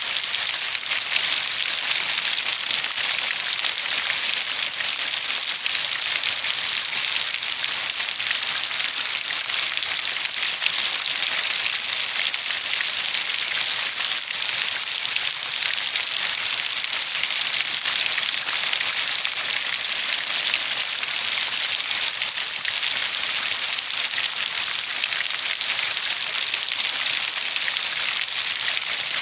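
Steady rain falling, an even, unbroken hiss of many drops with a fine pattering texture and no single loud event.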